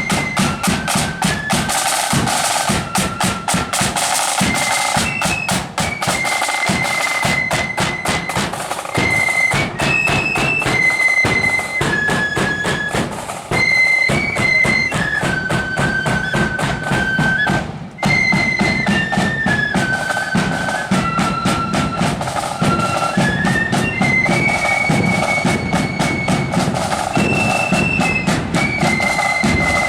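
Marching band playing a tune on high flutes over snare and bass drums, with a brief break in the music just before the middle.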